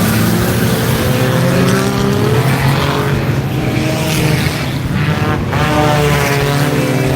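Several stock car engines running hard in a race, their pitches overlapping and rising and falling as the cars rev and pass.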